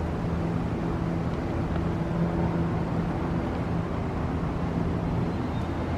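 Steady hum of a car driving, with engine drone and road noise heard from inside the cabin.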